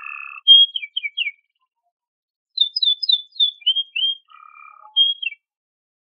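Domestic canary singing two short phrases of quick chirps and downward-sliding notes, with a low buzzy note mixed in, falling silent about five and a half seconds in.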